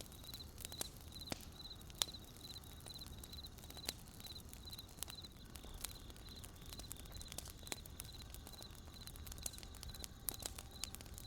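Wood fire crackling with scattered sharp pops, one louder snap about two seconds in, over crickets chirping steadily in short repeated trills.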